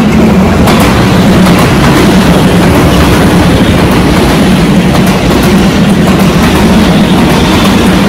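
Tobu Railway stainless-steel electric commuter train running past close by: a loud, steady rumble of steel wheels on the rails with faint clacks over the rail joints.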